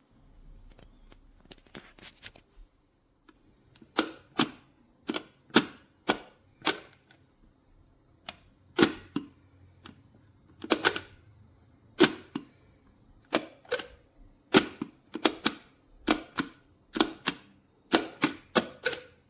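A series of irregular, sharp clicks and taps, roughly two a second, starting about four seconds in, a few with a brief ring after them.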